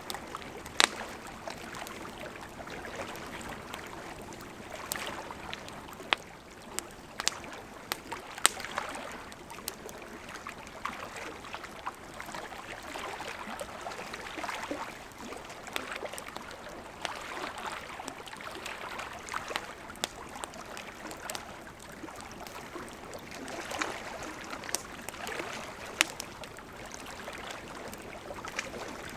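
Campfire crackling, with irregular sharp pops, a few loud, over the steady rush of a gently flowing river.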